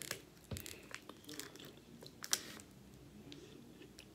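Biting and chewing a crunchy biscuit: a few sharp crunches, the loudest a little past two seconds in, between quieter chewing.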